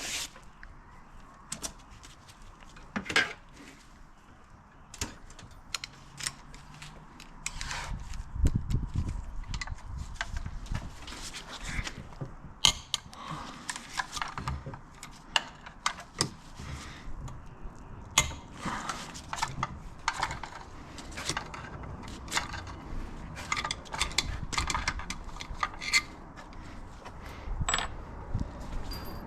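Hand tools and loose metal engine parts clinking and clicking on a workbench during an engine teardown: irregular light metallic taps and knocks, few at first and coming much more often from about eight seconds in.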